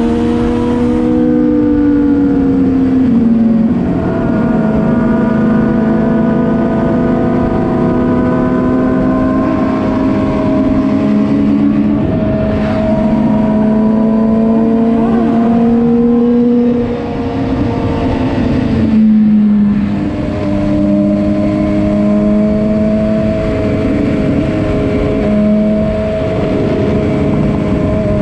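Vehicle engine running steadily at cruising speed under a constant rush of noise. Its note holds level, dips briefly about two-thirds of the way through, then picks up again.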